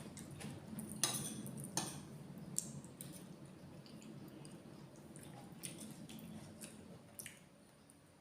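Eating sounds of a red curry meal: a spoon clicking against a dish a few times, the loudest about a second in, with soft wet mouth sounds between.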